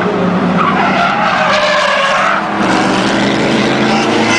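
Car engine running at speed while the tyres squeal in a skid for about two seconds.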